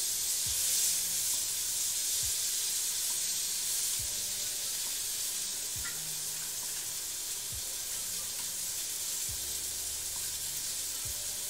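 Steak and sliced vegetables frying in hot pans on the stove: a steady sizzle as the steak's sides are seared.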